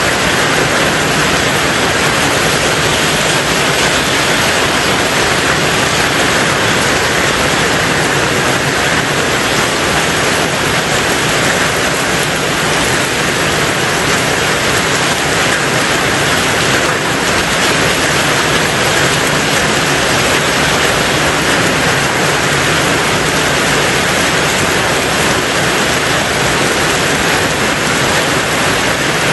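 Heavy rain drumming steadily on a tin roof, a dense unbroken hiss with no separate drops standing out.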